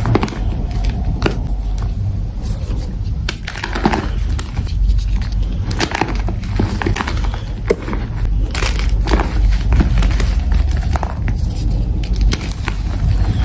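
Blocks of powdery gym chalk being crushed close to the microphone: irregular crunches and sharp crackles over a steady low rumble.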